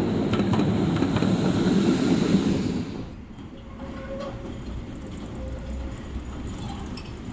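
Tram running on rails, its wheels clattering over the track. The sound is loud for about three seconds, then drops abruptly to a quieter rumble with a faint steady whine and a few clicks.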